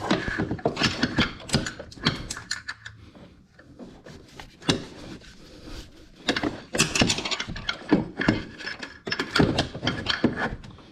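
Hand tools clicking and clanking on metal bolts in a car engine bay as the water pump pulley bolts are worked loose. The clicks come in two busy spells, with a quieter pause in the middle.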